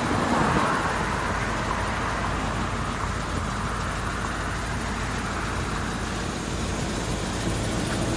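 GMC C7500 truck's gasoline engine idling steadily, quiet and smooth.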